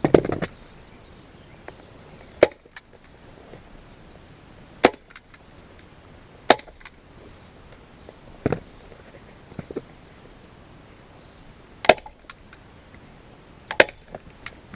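Hand-held staple gun firing staples through a vinyl seat cover into a plastic seat base: seven sharp snaps spaced every two to three seconds, some followed by a lighter click.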